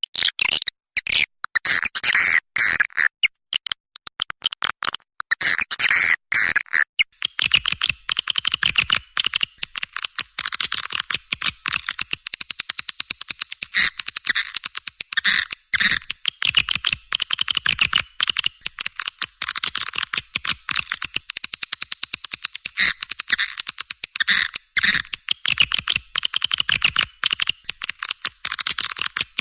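Swiftlet calling sound: a dense, continuous chatter of rapid high chirps and twitters, many calls a second, with almost no low sound beneath them.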